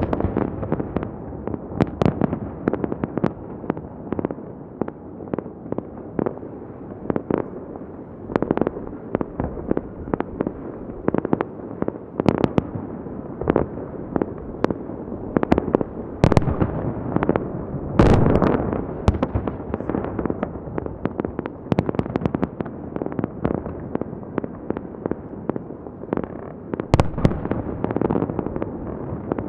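Festive fireworks salute going off: a continuous series of irregular booming bursts over a steady rumble of echoing explosions, with louder clusters of bangs at several points.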